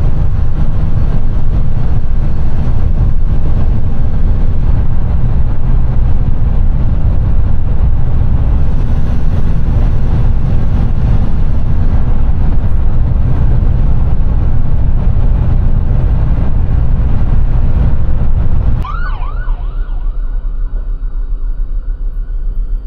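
Loud steady road and engine rumble inside a moving box truck's cab. About nineteen seconds in, the rumble drops off suddenly and a few short rising-and-falling siren yelps sound.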